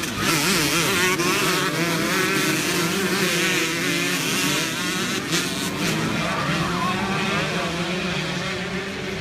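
A pack of dirt bikes revving and accelerating together at a race start, many engines at different, wavering pitches overlapping, slightly quieter near the end.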